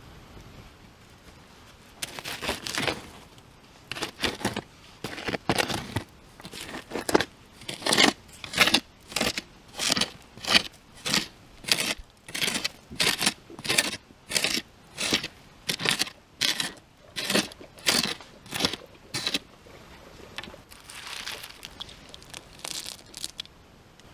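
Footsteps crunching through dry leaf litter at an even walking pace, about two steps a second, stopping near the end, followed by a softer rustle.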